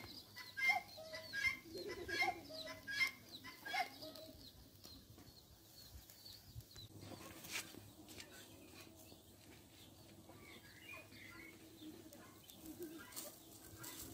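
Birds calling, one call repeated about every three-quarters of a second for the first four seconds, then only faint background sound.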